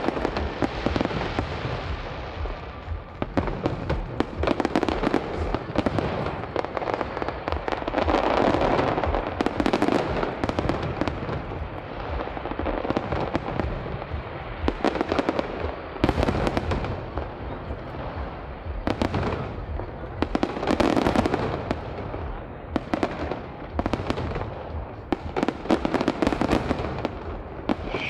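Fireworks display: a dense, continuous run of sharp bangs and crackling bursts, with louder crackling swells about a third of the way in and again about three quarters of the way through.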